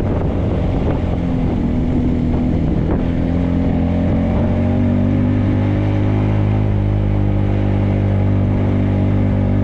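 Motorcycle engine running under way, uneven for the first few seconds and then settling into a steady, even note about halfway through.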